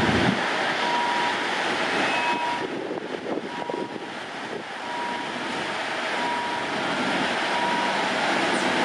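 Steady roar of a passing train, with a short beep repeating about once a second.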